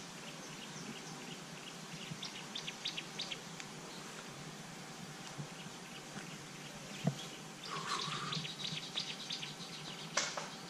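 Wild birds chirping in the bushes: a run of short, high chirps about two seconds in, and a louder cluster of rapid chirps and calls near the end.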